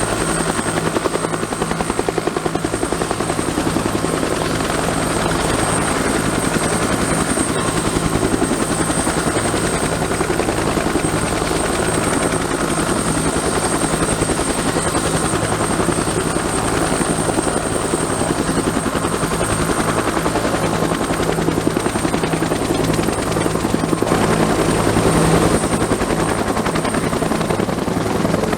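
Several Bell UH-1 'Huey' helicopters running on the ground after start-up, still waiting to lift off. Their turbine engines give a steady high whine over the low, rhythmic throb of the rotors.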